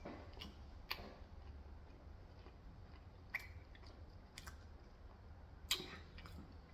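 Faint close-up eating sounds: a person chewing, with a few scattered sharp clicks and crunches.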